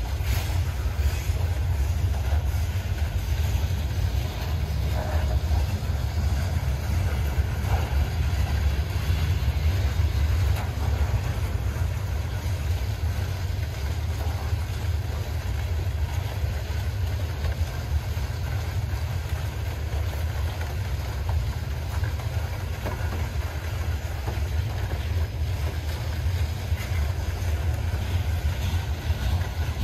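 Freight train rolling by with a steady low rumble.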